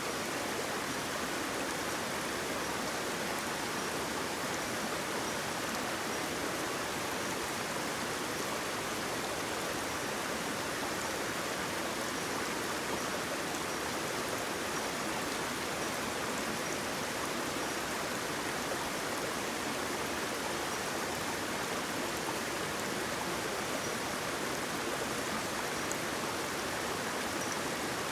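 Steady rushing of flowing water, a waterfall or fast stream, with no change in level.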